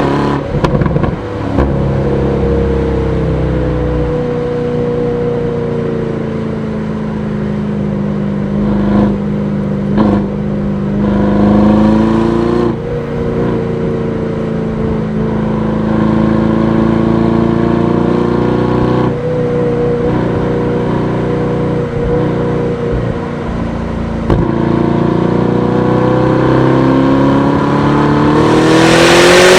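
Aston Martin DBX S's 4.0-litre twin-turbo V8 on the move: the engine note drops sharply at the start and again about halfway through as it changes up a gear, runs steadily with gentle rises and falls in between, and near the end climbs steeply in pitch and gets louder under hard acceleration. A few short sharp cracks are heard along the way.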